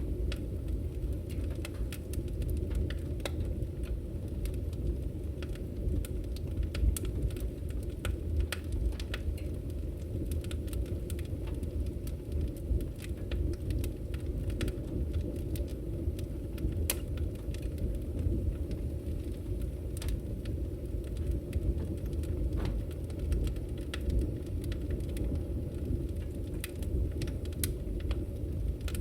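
Firewood burning in a Victory Camp Taiga wood-burning stove: a steady low rumble of the fire with many scattered sharp crackles and pops.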